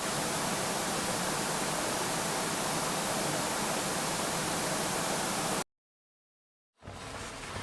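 Steady, even hiss like TV static, which starts abruptly and cuts off suddenly after about five and a half seconds. A moment of dead silence follows, then faint room noise comes in near the end.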